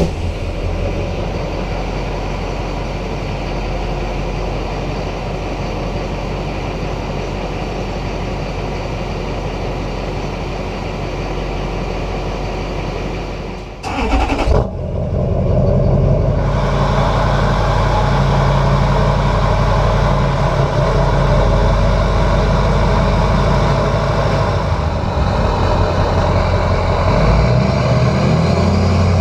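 LLY Duramax 6.6-litre V8 turbodiesel idling through an exhaust with the catalytic converter and muffler removed. About halfway through it cuts off and starts again, and it then idles louder and deeper.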